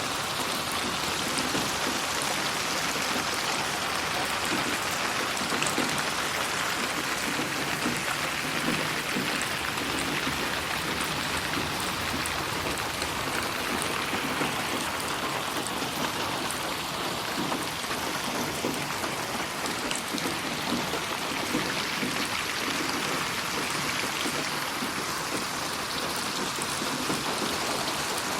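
Steady heavy rain falling, a dense even patter of drops on surfaces, processed as 8D audio that pans around the listener.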